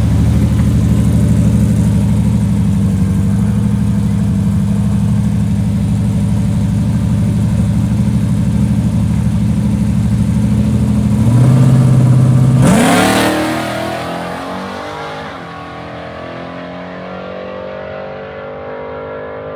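Drag-racing vehicle's engine running hard at a steady pitch for about eleven seconds and stepping up briefly. About thirteen seconds in comes a loud rush, then the engine note falls in pitch and fades away.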